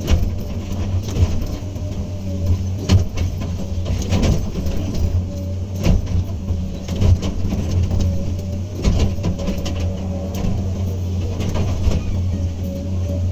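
Komatsu PC200 hydraulic excavator's diesel engine running steadily, with a faint steady whine above it and irregular sharp knocks and clanks scattered throughout.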